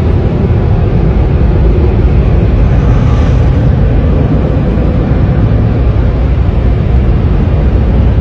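Tunnel car wash air dryer blowers blasting air over the car, a loud steady rushing heard from inside the car.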